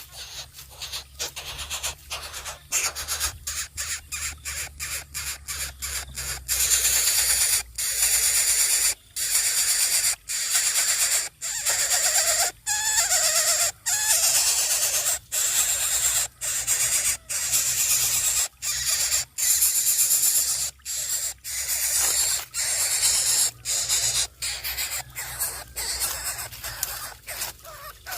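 A nestling bird of prey giving repeated raspy, hissing begging calls, each about a second long with short breaks between, louder from about six seconds in.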